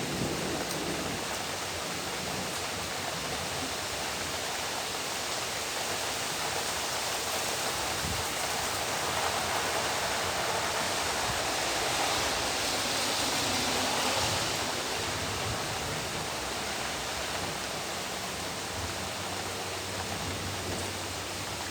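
Heavy rain pouring down in a steady hiss, swelling a little about halfway through and easing again.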